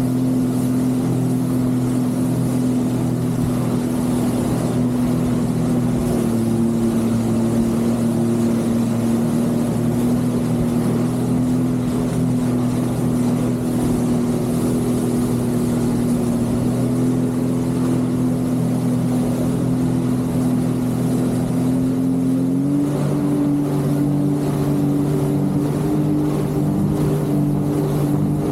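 Jet ski engine running at a steady cruising speed, its pitch stepping up slightly about 23 seconds in.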